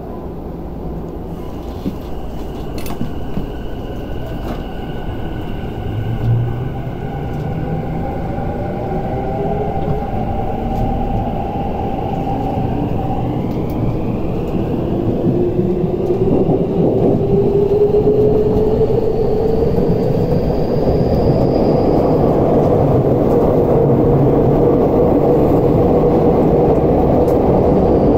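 A Tokyu 5050 series electric commuter train heard from inside the car as it pulls away from a station, with a brief low thump about six seconds in. As it accelerates, the motor whine rises in pitch as several tones, while the running rumble grows steadily louder.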